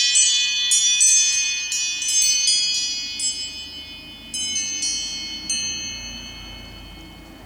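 A built-in iOS 7 ringtone playing on an iPod touch: bright bell-like chiming notes struck in quick runs, the last few ringing out and fading away over the final seconds.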